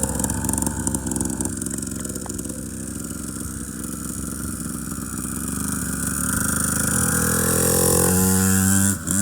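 Engine of a 2021 SYX Moto 50cc kids' motorcycle running as it is ridden, growing louder over the last few seconds.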